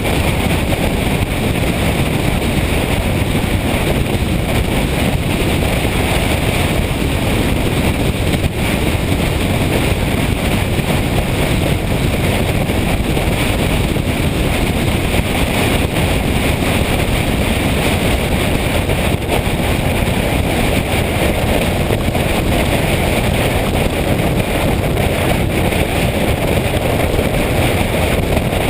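Steady wind rush buffeting the microphone, with the running noise of a motorcycle on the move underneath.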